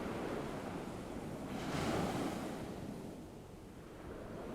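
Ocean waves washing onto a shore: one wave swells and breaks about two seconds in, then draws back and fades.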